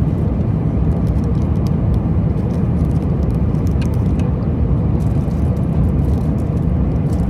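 Steady low rumble of a jet airliner's cabin in flight: engine and airflow noise, with a few faint small clicks.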